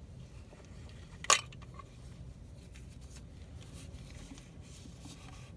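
One sharp click about a second in, over a low steady hum and faint handling rustles.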